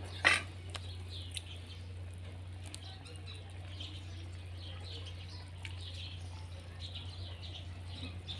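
Small birds chirping over and over in the background above a steady low hum. One sharp clack comes about a third of a second in.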